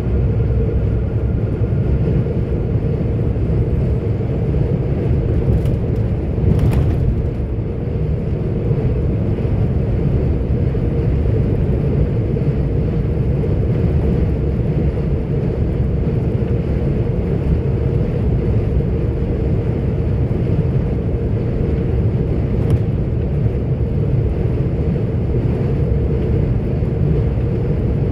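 Steady low drone of a 44-tonne articulated truck cruising on the road, heard from inside the cab: engine and road noise with a faint steady hum. A brief louder swell comes about six or seven seconds in.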